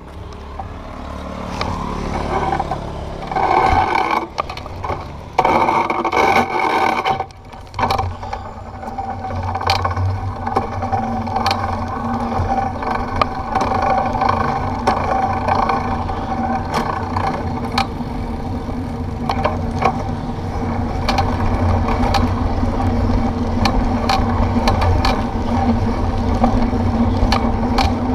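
Bike riding over a rough road: a steady low rumble with frequent rattles and knocks, and loud surges of noise in the first several seconds.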